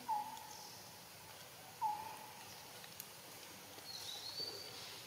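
Forest birds calling: two short clear whistled notes about two seconds apart, then a thin, higher whistle that rises and levels off near the end, over faint steady forest ambience.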